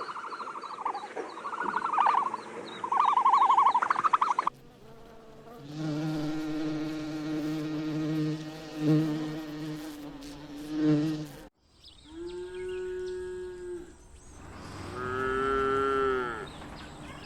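Sheep bleating in short clips cut one after another: quick quavering calls, then a long steady bleat, then two wavering bleats near the end.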